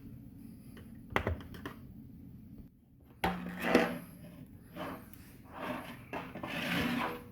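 Dishwasher cover panel being handled and pulled off: a sharp knock, then several bouts of scraping and rustling.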